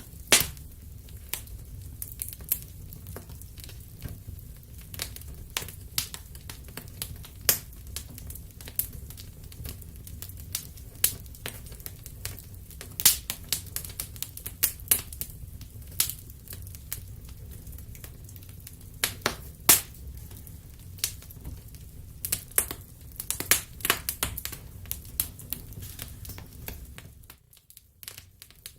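Wood fire crackling: irregular sharp pops and snaps, a few of them loud, over a steady low rumble, with a brief drop in level near the end.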